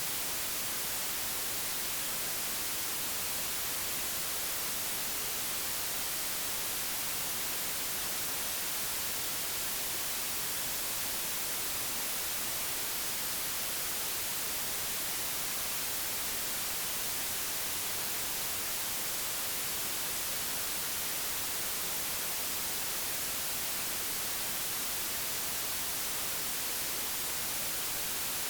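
Steady, unchanging white noise: an even digital hiss, brightest in the high frequencies, with no events or changes.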